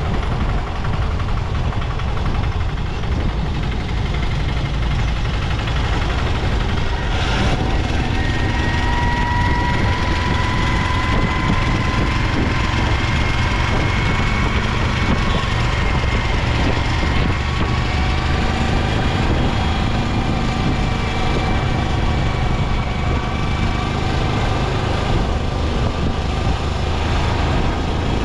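Motorcycle riding along at speed: a steady rush of wind on the microphone over the engine. A brief knock comes about seven seconds in, and from about eight seconds a faint whine rises slowly in pitch.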